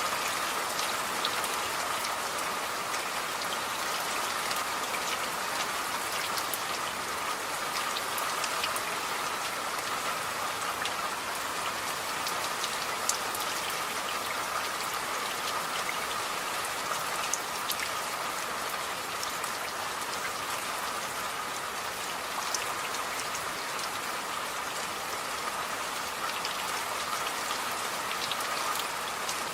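Steady rain falling, an even hiss with many small individual drops ticking on a surface.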